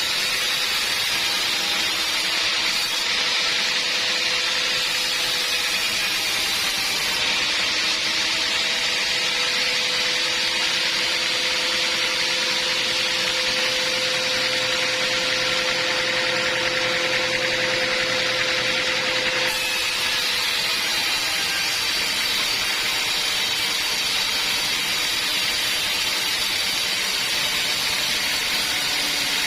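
Band sawmill running steadily, a loud hiss with a whine over it. The whine stops about two-thirds of the way through while the running noise carries on.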